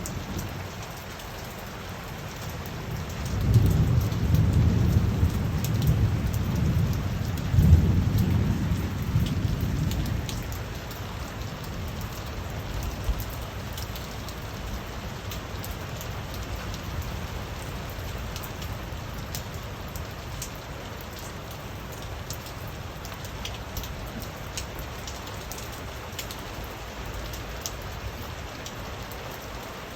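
Steady rain falling, with scattered ticks of individual drops. A deep rumble of thunder comes in about three seconds in, swells twice and dies away by about ten seconds.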